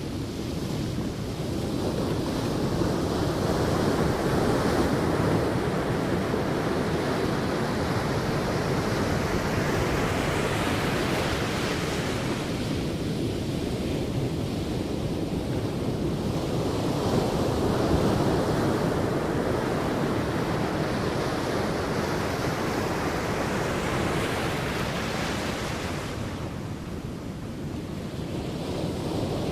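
Sea waves breaking and washing up a beach, swelling and ebbing slowly in two long surges.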